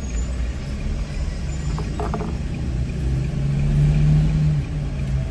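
Car engine and road rumble heard from inside a moving car, with a louder steady engine hum swelling about three seconds in and easing off near the end.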